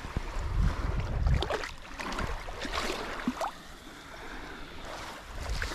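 Shallow, calm sea water sloshing and splashing in small irregular bursts as someone wades through it.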